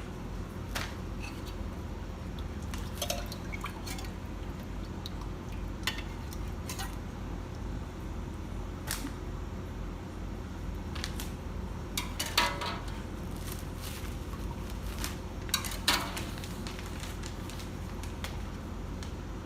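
Kitchen work: scattered clinks and knocks of utensils against pots and dishes, with a few louder clatters, over a steady low hum.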